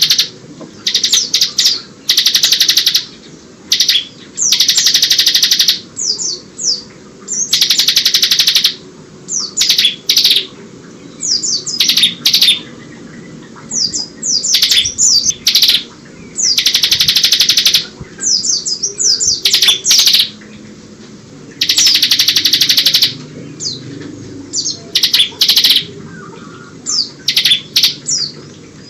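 Bar-winged prinia (ciblek) singing in rapid, dense trilling bursts of about a second each, alternating with short chirps and quick slurred notes. Its song carries phrases copied from the white-eye (pleci).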